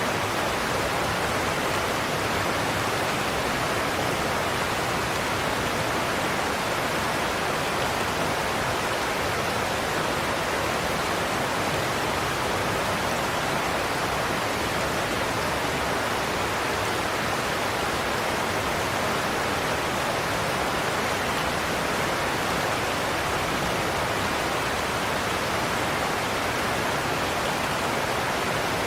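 Godafoss waterfall pouring over its cliff: a steady rushing noise that never changes.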